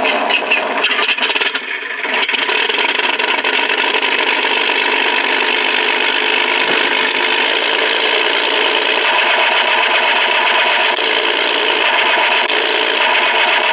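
Mr RC Sound onboard sound unit playing a simulated airplane engine through its small speaker: an uneven start-up for about two seconds, then a steady running drone with no deep bass.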